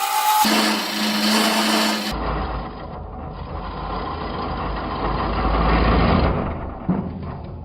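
Wood lathe running with a steady motor rumble and hum as the mallet is turned, and a sharp knock near the end.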